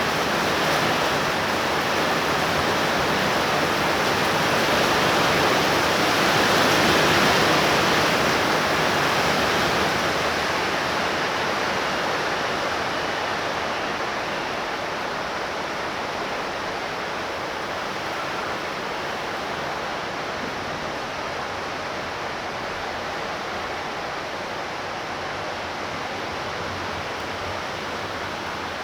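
Torrential rain pouring down steadily as a dense hiss, swelling a few seconds in and then easing a little through the second half.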